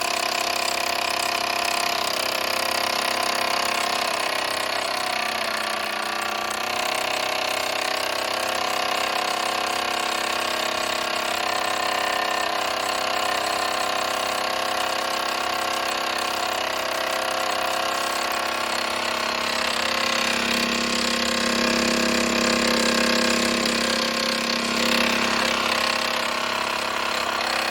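A Mamod SE1 toy steam engine, with its single oscillating cylinder, running steadily under steam.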